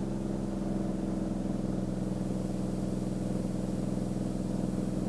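Beechcraft Bonanza's six-cylinder piston engine and propeller at climb power just after takeoff, a steady drone with several held tones.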